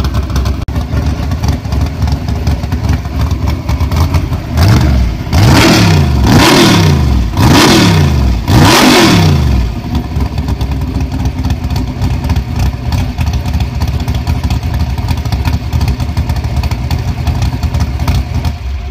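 Pro Comp Camaro's 555 cubic-inch methanol-burning big-block Chevy V8 idling, then revved four times in quick succession from about four to nine seconds in, each rev rising and falling in pitch, before it settles back to idle.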